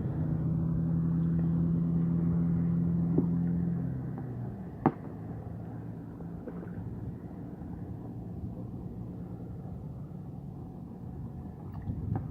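Hangkai 6 hp outboard motor running steadily, then dropping to a lower, quieter note about four seconds in as the throttle is eased back, with a sharp click about a second later. The motor is new and being run in.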